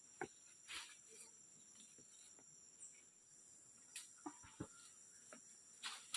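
Faint, steady high-pitched chirring of insects, with scattered soft clicks and rustles, the clearest about a second in, near the middle and near the end.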